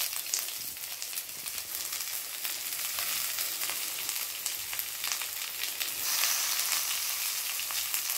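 Sliced onions and chopped tomatoes sizzling in hot oil in a kadai, a steady hiss with scattered crackles that gets louder about six seconds in.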